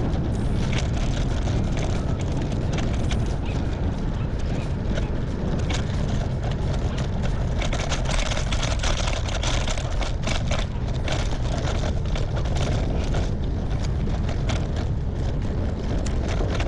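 Strong wind buffeting the microphone while cycling: a steady low rumble with scattered crackles.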